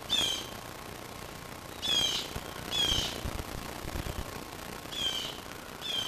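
A bird calling five times: short, high, downslurred calls, the first on its own and the other four in two pairs.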